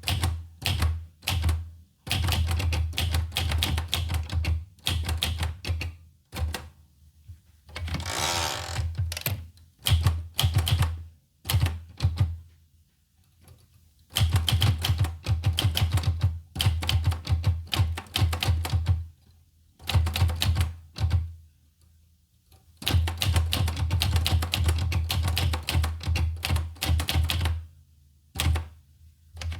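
Olivetti Lettera 25 portable manual typewriter being typed on: fast runs of key strikes lasting a few seconds each, broken by short pauses, with one longer rasping sweep about eight seconds in.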